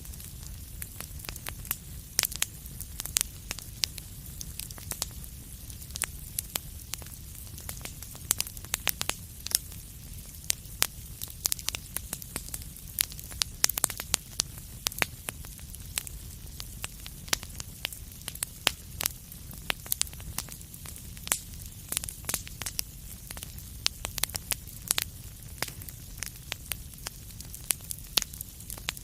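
Wood fire in a fireplace crackling: frequent sharp, irregular pops and snaps over a steady low rumble and hiss of burning.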